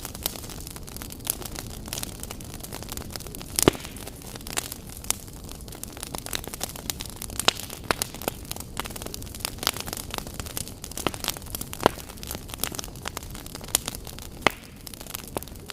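Wood fire burning in a fireplace, crackling and popping at irregular intervals over a steady low rumble, with a louder pop about four seconds in.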